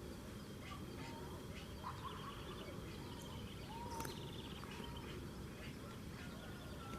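Birds calling with short chirps, sweeps and a trill, over a steady low background noise, with one sharp click about four seconds in.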